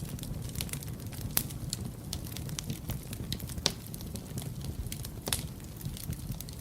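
Wood fire burning in a fireplace: a steady low rumble of flames with frequent sharp crackles and pops, a few louder snaps about a second and a half, three and a half and five seconds in.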